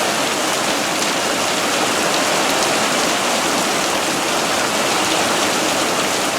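Heavy monsoon rain falling steadily, an even hiss of rain on surfaces.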